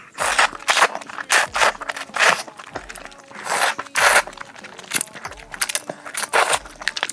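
Close-up eating sounds: irregular, loud chewing and crunching bursts coming several times a second, with some scraping.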